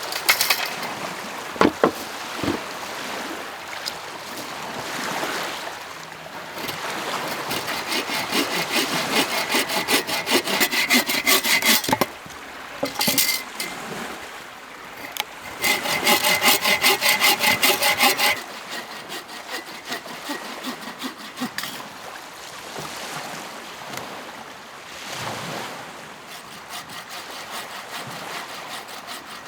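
Hand saw cutting through wood, stroke after stroke, with two louder runs of fast strokes in the middle and softer sawing around them. A couple of sharp knocks come just after the start.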